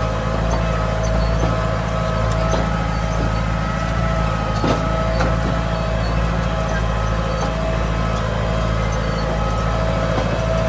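Kubota M9000 tractor's diesel engine running at a steady speed, with a steady whine above the engine note and a few light clicks.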